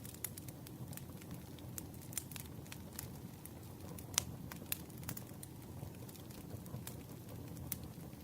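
Campfire crackling: irregular sharp pops over a steady low rush of the fire, one pop louder about four seconds in.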